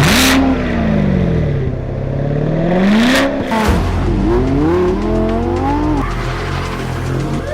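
Sports car engine revving and accelerating. The engine note sinks and then climbs again, with a sharp burst of noise at the start and another about three seconds in, then climbs repeatedly through rising sweeps.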